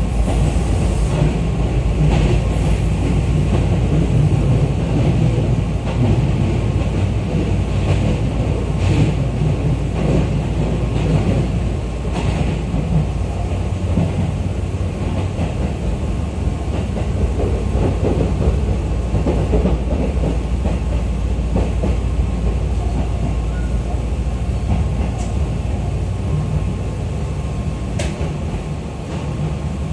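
Running noise inside a Tobu 10030-series electric commuter train car: a steady rumble of wheels on rails, with a few faint clicks, easing off slightly near the end.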